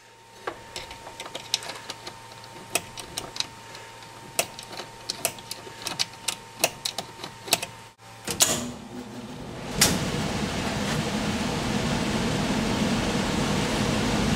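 Scattered light clicks and taps of hands and tools on a heat pump's electrical contactor, over a faint steady hum. About ten seconds in a sharp click, then a louder steady rushing noise with a low hum.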